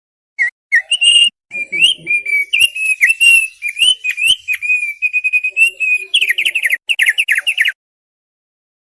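Thick-billed heleia (opior paruh tebal) singing a varied run of whistled and twittering notes. The song ends in a quick series of falling notes about six seconds in, then stops.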